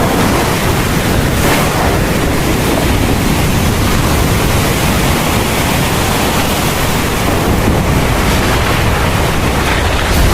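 Heavy rain pouring steadily as a dense, even hiss over a deep low rumble, with no distinct thunderclap.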